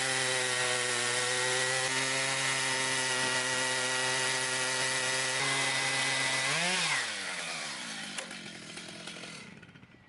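Power saw motor running steadily at full speed, then switched off about six and a half seconds in and winding down, its pitch falling as it fades out.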